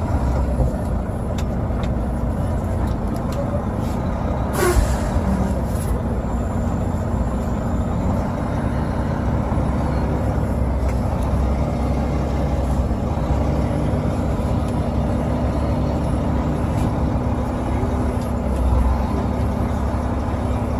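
Semi-truck diesel engine running steadily at low speed, heard from inside the cab while the rig reverses. About five seconds in there is a short sharp hiss, with a smaller one a second later.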